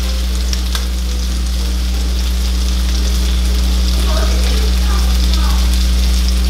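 Seasoned chicken pieces sizzling in butter and olive oil in a skillet while a spatula lifts them out onto a plate, with a couple of light utensil clicks in the first second. A strong steady low hum runs underneath.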